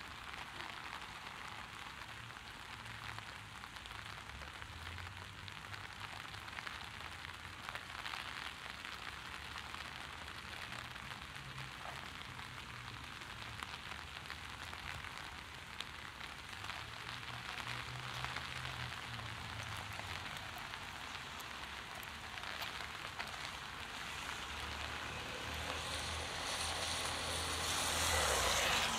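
Heavy rain falling steadily on the street, with a low rumble of traffic underneath. Near the end a vehicle passes on the wet road, its tyre hiss swelling and then falling away.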